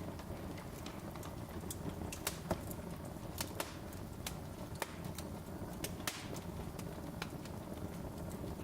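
Wood fire crackling in a fireplace: irregular sharp pops and snaps, several a second, over a low steady rumble of the burning logs.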